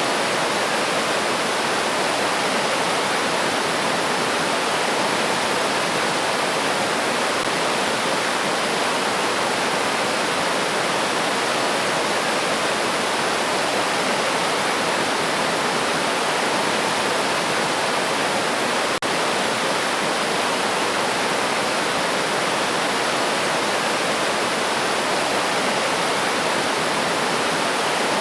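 River stream flowing, a steady, even rush of water.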